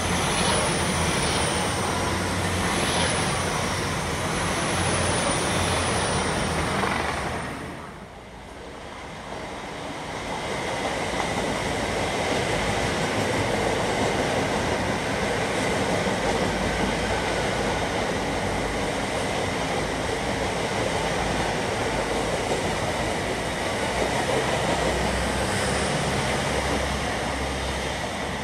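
Two passenger trains passing through the station at speed, one after the other. The first goes by on a far track for about seven seconds. After a brief dip, a long train rushes past on the nearest track with steady wheel-on-rail noise and a thin whine, still passing at the end.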